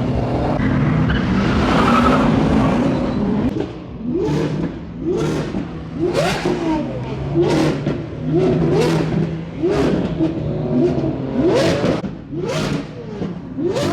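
A car engine revved hard over and over. After a few seconds of engine noise climbing in pitch, it blips up and back down about once a second.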